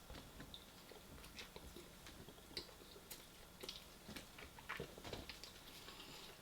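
Faint chewing and mouth sounds of a person eating, with irregular small wet clicks.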